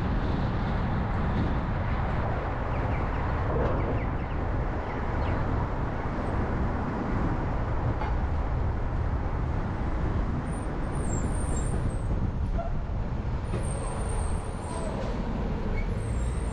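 A car driving along, with steady road and engine noise.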